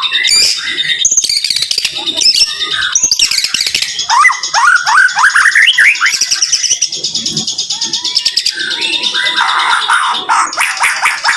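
White-rumped shama (murai batu) singing fast, dense bursts of song: rapid chattering notes over high whistles, with a run of quick sweeping notes about halfway through.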